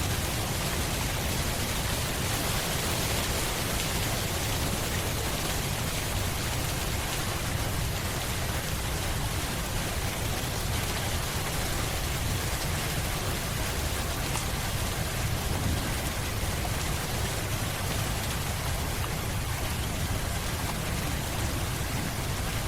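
Steady rain falling, an even unbroken hiss without distinct drops or thunderclaps.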